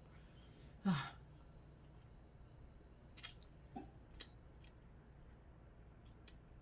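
A short sigh with a falling pitch about a second in, then a few faint, sharp clicks and cracks of crab legs being handled and eaten.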